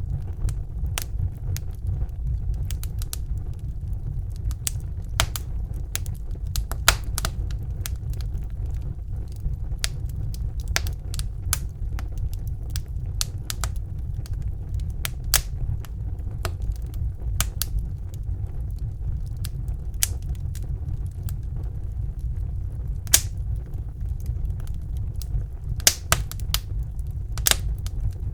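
Wood fire burning in a fireplace: a steady low rumble of the flames with irregular sharp crackles and pops, a few louder pops standing out.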